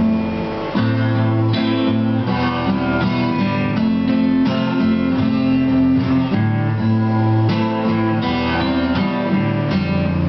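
Acoustic guitar playing an instrumental break: strummed chords with ringing picked notes, no singing.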